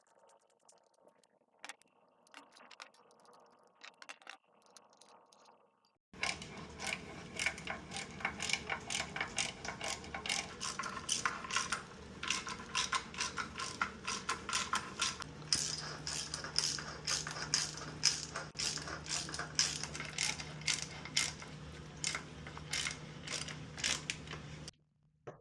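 Ratchet wrench clicking in a steady rapid run as the bolts joining the transmission to the engine are run in. It starts about six seconds in after a few faint knocks, with a low steady hum joining partway through.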